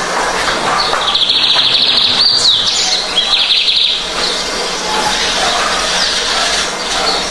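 Lined seedeater (bigodinho) singing: a fast, buzzy high trill from about a second in, broken by a quick upward sweep, then a second trill that ends around four seconds in. Scattered faint chirps follow over a steady hiss.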